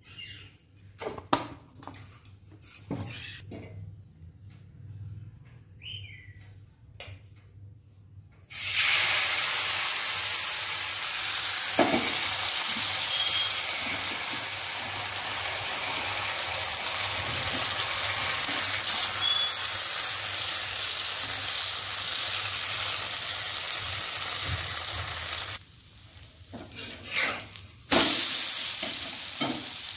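Batter sizzling on a hot, oiled iron tawa: a few light utensil clicks, then a sudden, loud, steady frying hiss starting about a third of the way in. The sizzle dies down briefly near the end and flares up again.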